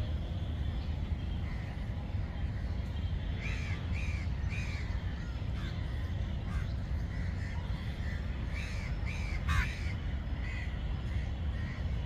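Birds calling: a run of short, repeated calls starting about three seconds in and going on to near the end, with one quick falling call a little before that, over a steady low rumble.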